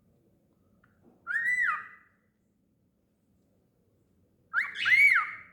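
Cockatiel whistling: two clear whistled calls about three seconds apart, each gliding up and then back down in pitch.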